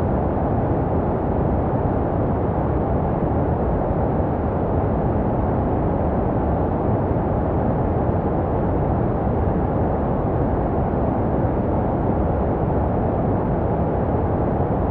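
Continuous baby-sleep white noise, a steady deep, muffled rush with little treble and no change. It is made to resemble the sound a baby hears inside the womb.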